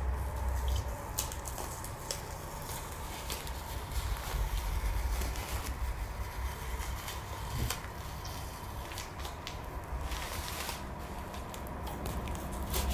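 Masking tape being peeled off a painted motorcycle gas tank and balled up, giving irregular crackles and rustles over a low rumble of handling.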